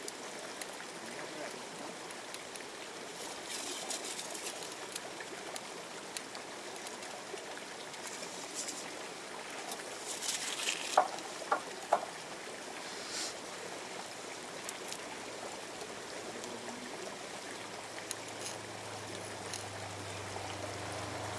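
River water running steadily, with a few sharp clicks and scrapes of stones and gravel a little before halfway through.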